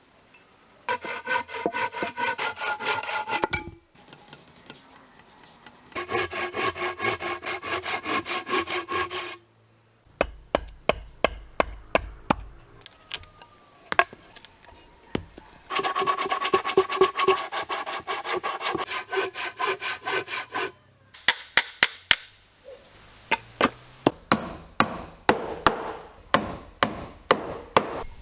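Hand saw cutting wood in three bursts of quick, even strokes with a ringing tone. Between the bursts come series of sharp wooden taps and knocks.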